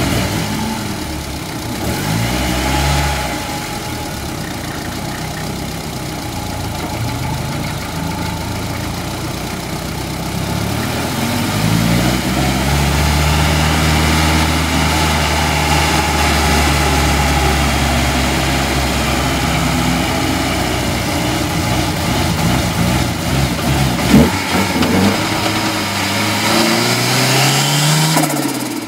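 Ford Sierra RS Cosworth's turbocharged four-cylinder race engine heard from inside the stripped cabin, revving up and dropping back through the low gears as the car pulls away slowly and gathers speed. One sharp crack comes near the end.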